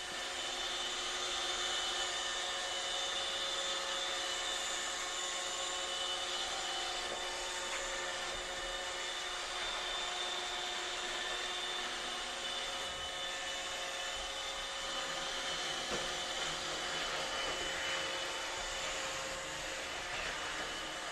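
Roomba robot vacuum running: a steady motor whir with constant high whining tones.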